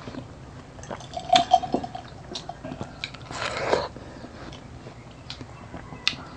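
Close-up mouth sounds of eating juicy watermelon: scattered wet chewing and smacking clicks, with a longer slurp about three and a half seconds in.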